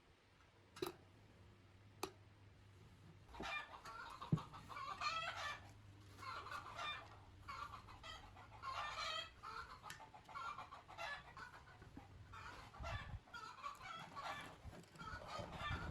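Birds calling over and over in short bursts, with a few sharp knocks in the first few seconds.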